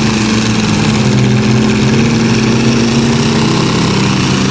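Engines of a school bus and several cars and trucks running hard under load as they push against each other: a loud, steady drone of several engines at once.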